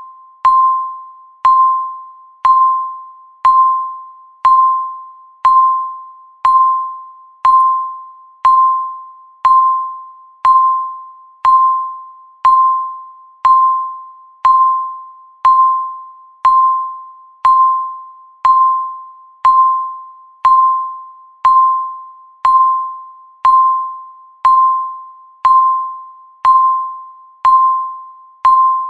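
Countdown timer's tick sound: a short electronic beep near 1 kHz struck once every second, each fading quickly before the next, about 29 in a row.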